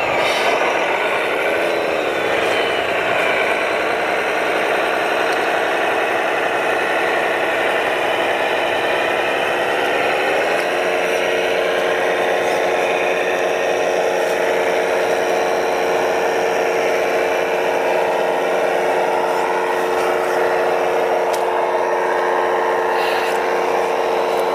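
A small motor whirring steadily, its pitch stepping up about ten seconds in and then holding steady.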